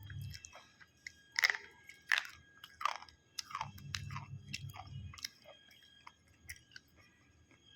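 Close-up chewing of crunchy food, with a series of loud crisp crunches over the first few seconds that give way to softer, wetter chewing.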